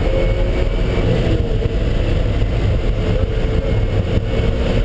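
Car engine running at a steady, slowly drifting pitch over a constant low rumble and road noise, with no sharp revving or shifts.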